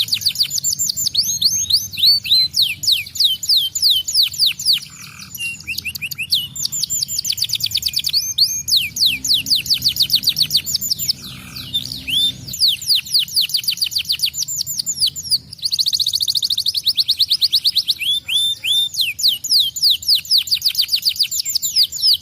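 Domestic canary singing in fast trills of rapid falling whistled notes, many per second, with a couple of brief lulls about a quarter and halfway through.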